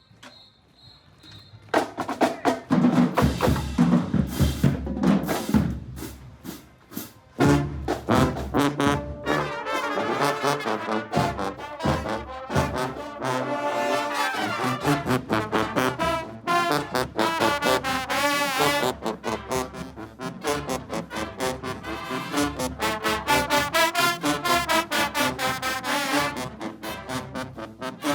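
Marching band playing, brass horns and drums together. It is near quiet at first, the drums and band come in loud about two seconds in, and the horns carry the tune through the rest.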